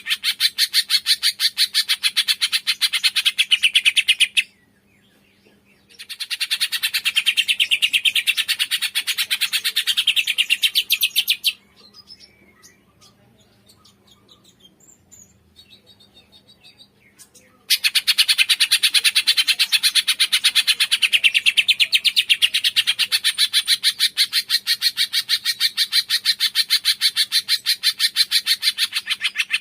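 Cungkok bird singing a high, rapid trill of quickly repeated notes in long unbroken bouts. There is a short break about four and a half seconds in, and a longer lull with only faint scattered chirps from about 11 to 18 seconds.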